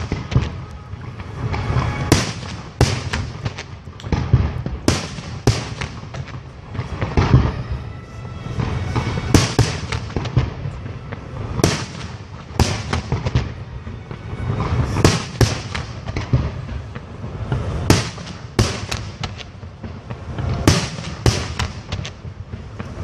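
Fireworks display: aerial shells bursting one after another, sharp bangs coming irregularly and often several in quick succession, over a continuous low din from the barrage.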